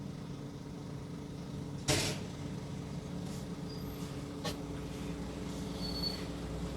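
Steady mechanical running hum of a Scania double-deck coach heard from the cab, with a sharp click about two seconds in and a fainter click midway.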